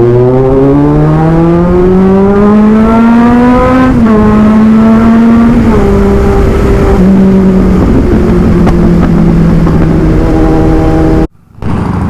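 Kawasaki Z900's inline-four engine on the move: the revs climb steadily for about four seconds, drop with an upshift, then hold fairly steady with a couple of small dips, over wind noise. Near the end the sound cuts out abruptly for a moment.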